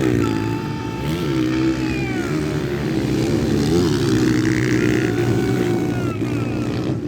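Several 125–160 cc motocross bikes racing, their engines revving up and down, with several pitches rising and falling over one another.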